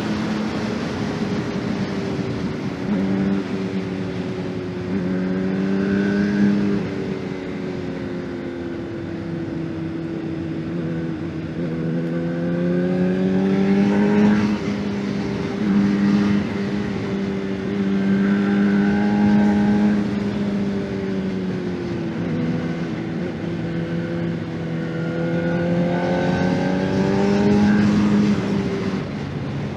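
2024 Honda CBR600RR's inline-four engine heard from the rider's position, its note climbing and falling again and again as the throttle opens and closes through the bends, with several pitch steps from gear changes.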